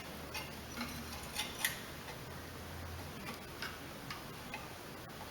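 Faint, irregular light clicks and ticks of small parts and hand tools being handled while a replacement carburetor and its O-ring and gasket are fitted to a lawnmower engine.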